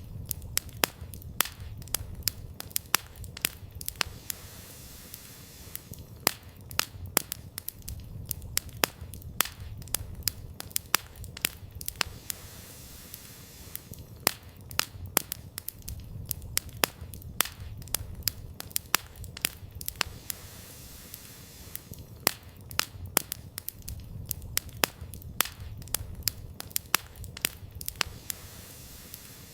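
Wood campfire burning: sharp, irregular crackles and pops from the burning firewood over a low rumble of the flames.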